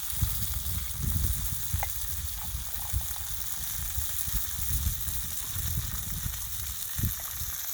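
Fish frying in a cast-iron skillet over a campfire: a steady sizzle with a few faint pops, over an uneven low rumble.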